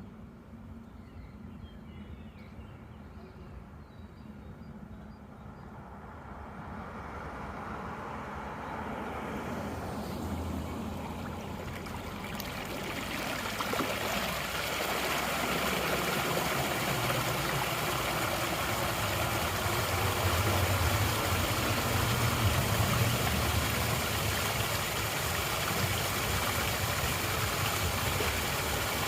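Rainwater rushing down into a cleared storm drain, a steady rush that swells over the first dozen seconds and then holds, over the low hum of an idling engine.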